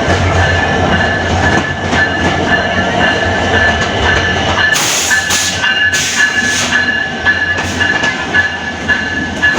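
Passenger train moving along the station platform: wheels rolling on the rails under a steady high whine, with bursts of hiss about five seconds in.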